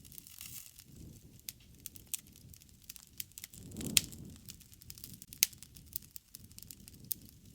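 Wood campfire crackling with a steady scatter of sharp pops over a low rush of burning. Two louder pops come about four and five and a half seconds in, and the low rush swells around the first.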